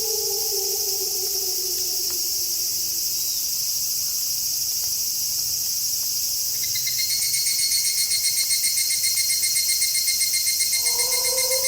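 Crickets chirping steadily in a night chorus. A wolf howl slides down in pitch and fades out about three seconds in, and another howl begins near the end. From about halfway a louder pulsing insect trill joins the chorus.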